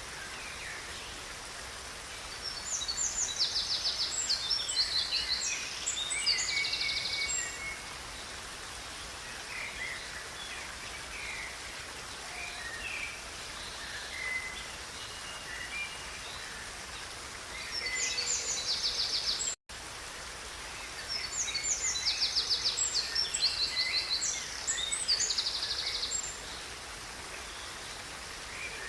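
Songbirds singing over the steady rush of flowing river water. A long burst of rapid, high trilled song comes twice, with scattered short chirps between, and the sound cuts out for an instant about two-thirds of the way in.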